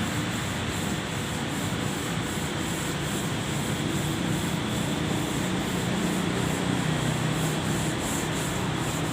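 Power sander working on car bodywork: a steady rasping hiss with a faint, regular pulsing.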